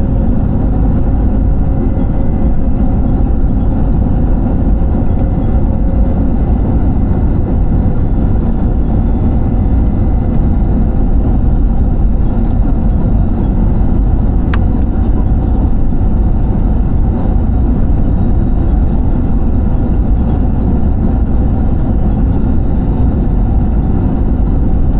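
Steady, loud roar of an airliner's engines and airflow heard inside the passenger cabin, with a single brief click a little past halfway.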